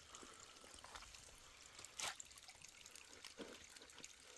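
Near silence, with a few faint separate clicks and knocks.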